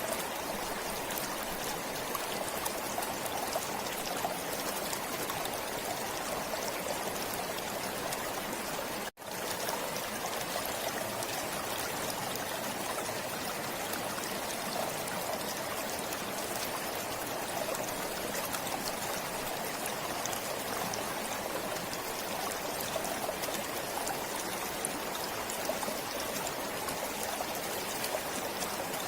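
Forest stream flowing and trickling steadily. The sound cuts out for an instant about nine seconds in, then carries on unchanged.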